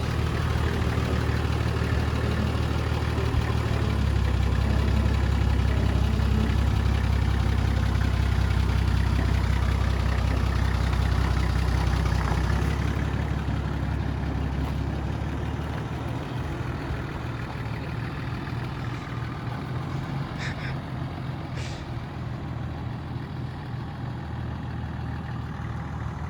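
Four-wheel-drive's engine running at low revs, crawling in low range. It works a little harder through the first half, then drops back to a lower, quieter idle from about halfway through.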